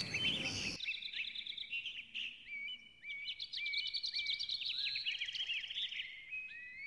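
Several birds chirping: quick runs of short high calls, many sliding up or down in pitch, after a brief hiss that cuts off under a second in.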